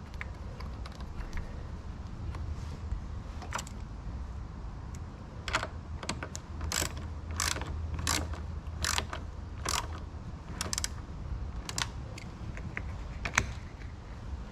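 Ratchet socket wrench clicking in a run of short strokes, one click a little under a second apart starting about five seconds in, as a battery terminal clamp is tightened back on.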